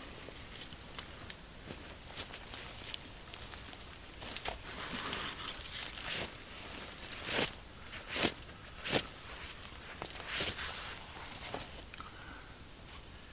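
Irregular rustling and crunching of dry leaves and twigs, broken by sharp snaps. The loudest snaps come close together a little past the middle.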